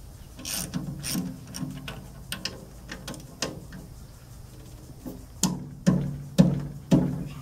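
Ratchet socket wrench working bolts loose on an airboat propeller: scattered ratchet clicks, then four sharp metallic knocks with a short low ring, about half a second apart near the end.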